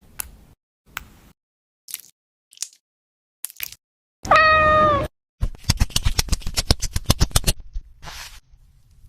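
A domestic cat meows once, loudly, about four seconds in, after a few scattered soft clicks. It is followed by a quick run of sharp ticks, about ten a second, lasting about two seconds.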